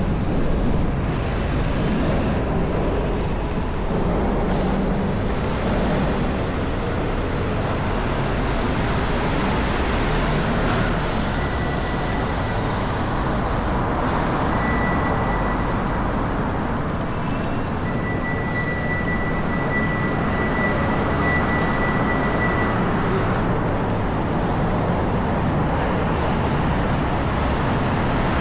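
Strong wind rushing and buffeting the microphone over city street noise. A steady high beep sounds on and off through the middle of the stretch.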